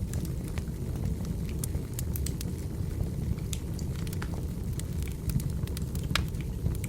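Firewood burning: a steady low rumble of the fire with irregular sharp pops and crackles from the logs, one louder crack near the end.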